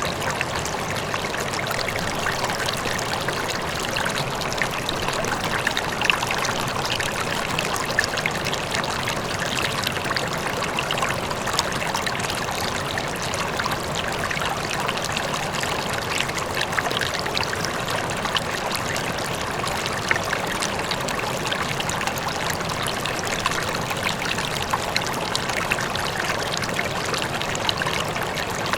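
River flowing steadily over rocks, a constant rush and babble dotted with small splashes, with a faint waterfall in the distance.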